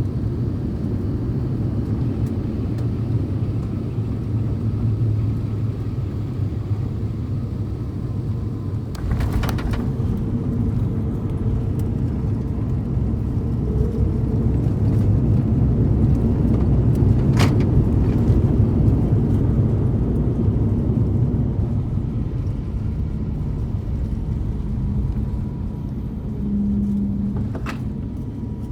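Airbus A350-900 cabin noise during landing: a steady rumble of engines and airflow. The low rumble deepens suddenly about nine seconds in with a couple of sharp knocks, swells louder midway through, then eases.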